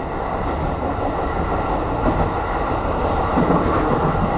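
Aonami Line commuter train running along the track: a steady rumble of wheels on rail with a faint steady whine, and a few light clicks near the end.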